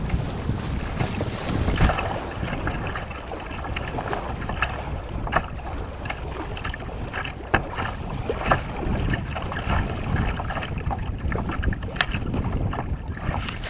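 Turbulent river water rushing and churning, with wind buffeting the microphone. Scattered sharp splashes or knocks are heard, a few standing out around the middle and near the end.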